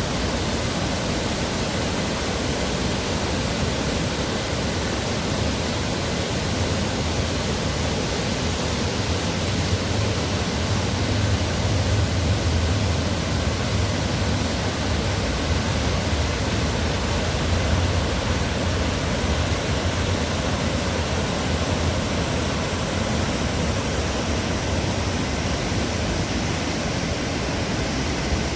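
Waterfall: a steady, dense rush of falling water with a deep low rumble underneath.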